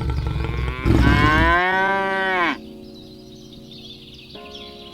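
A cow mooing: a long moo begins about a second in and drops in pitch as it ends, after a low rumble at the start. A quieter held tone follows, and a second call begins near the end.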